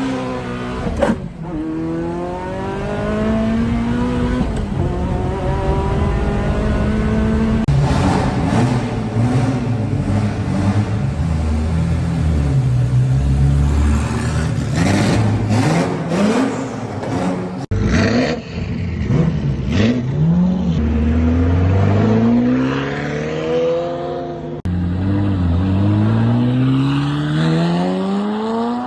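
Ferrari F40's twin-turbo V8 accelerating hard, its pitch climbing and dropping back again and again through gear changes, in several separate runs cut together.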